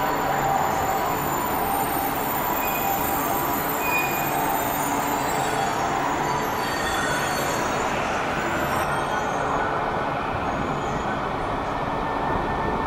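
Steady noise of an E4 series 'Max' double-decker Shinkansen at the platform, with a few faint steady tones and a thin high whine joining about nine seconds in.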